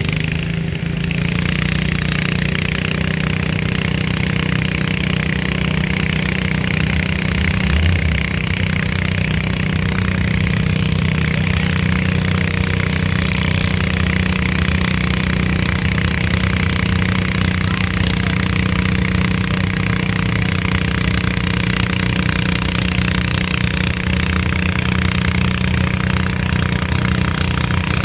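Competition garden tractor's small engine running steadily and loudly.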